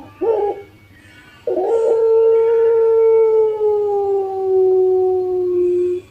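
Puter pelung dove, a Barbary dove bred for long contest cooing, calling: a short coo note near the start, then about a second later one long drawn-out coo held for over four seconds, slowly falling in pitch.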